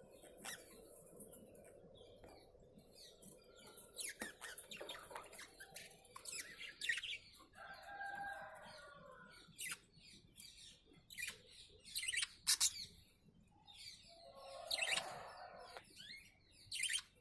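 Cockatiels chirping in short, sharp calls at irregular moments, with a couple of longer, harsher calls about halfway through and again near the end.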